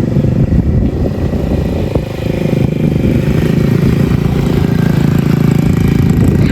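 Mini bike's small engine running under throttle, with a brief dip about two seconds in before it holds steady again.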